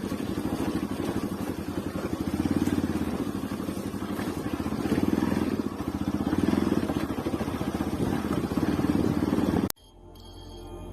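Bajaj Pulsar NS motorcycle engine running as the bike rides along, its level rising and falling with the throttle. Near the end it cuts off suddenly and soft ambient music fades in.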